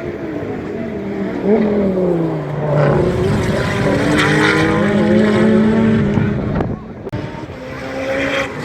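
Race car engines on the circuit: one car's engine note falls in pitch, then a louder car runs past from about three seconds in, its sound dropping away suddenly near the end.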